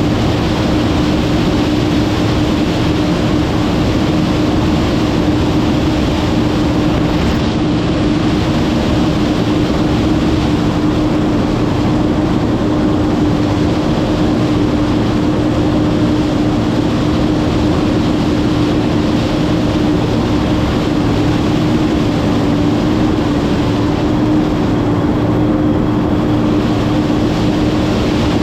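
Massey Ferguson 9690 combine running steadily while shelling corn: a loud, even machine noise with a constant hum.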